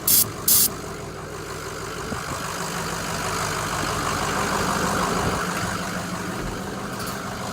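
Diesel engine idling steadily after a cold start, growing a little louder through the middle. It opens with two short, sharp, loud bursts about half a second apart.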